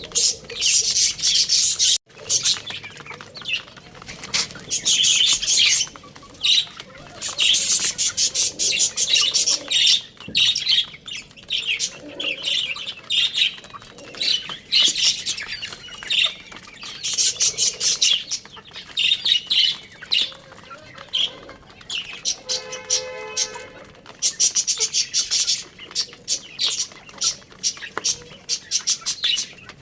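Many small birds chirping busily in bursts of rapid, high-pitched calls. A brief lower call cuts in about two thirds of the way through.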